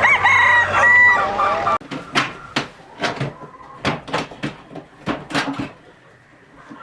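Farmyard poultry calling over one another. About two seconds in the sound changes abruptly to a chicken giving about eight short, sharp clucks over roughly four seconds.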